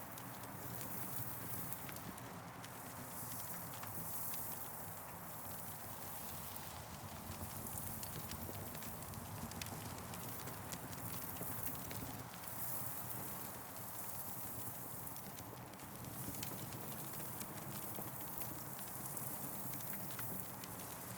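Campfire crackling, with frequent small pops and snaps over a steady hiss.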